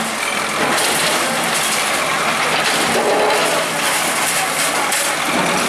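Vehicle engine running steadily under a loud, constant wash of outdoor noise, with faint voices in the background.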